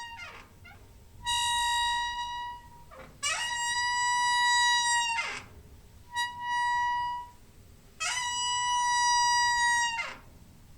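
Squeaking door hinge: four drawn-out squeaks of one to two seconds each, a high squeal held at one pitch that slides briefly as each squeak starts and stops.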